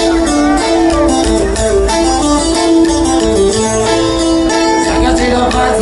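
Regional Mexican band music with plucked guitars over a heavy bass, playing instrumentally with no singing in this stretch.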